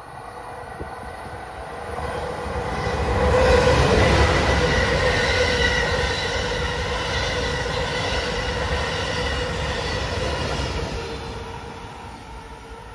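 An Amtrak Acela Express high-speed trainset passing close by at speed: wheel and rail rumble with a steady whine on top. It swells to its loudest a few seconds in, holds while the coaches go by, then fades in the last couple of seconds as the train draws away.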